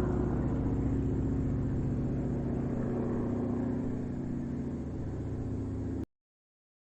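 Engine running steadily with a low, even hum that slowly eases off, then cuts off suddenly about six seconds in.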